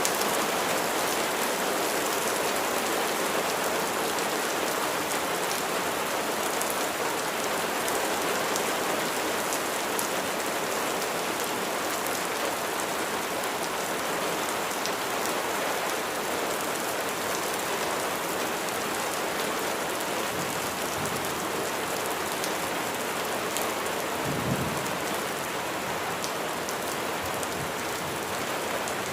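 Steady rain falling, with individual drops ticking through it. A brief low thump comes about three-quarters of the way through.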